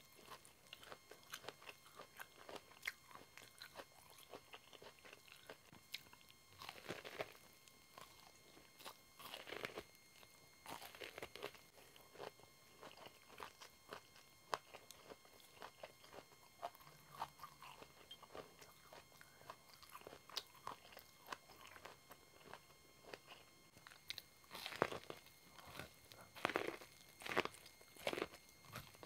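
Close-miked biting and chewing of corn kernels off the cob: a continuous run of small crisp crunches and clicks, with a cluster of louder bites near the end.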